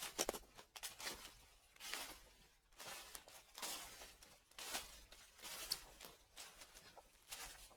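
Footsteps crunching through dry fallen leaves at a slow, even walk, about one crackling step a second.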